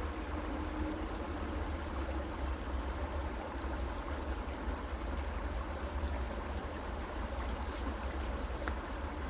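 Creek water flowing in a steady rush, with a steady low rumble underneath and a couple of faint ticks near the end.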